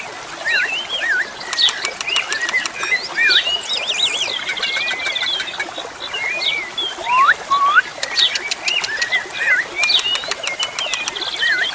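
Asian pied starlings (jalak suren) singing: a busy mix of whistles, wavering warbles and rising glides, broken by rapid clicking rattles, with several calls overlapping.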